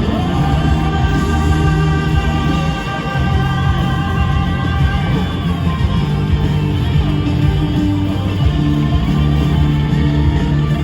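A rock band playing live at full volume: electric guitars over bass and drums, with steady sustained guitar lines.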